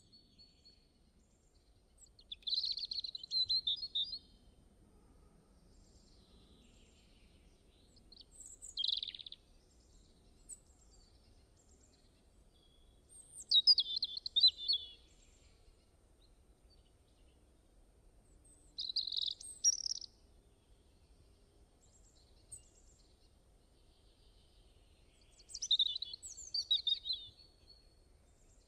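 Bird song: short bursts of high chirping phrases every five seconds or so, with faint background ambience between them.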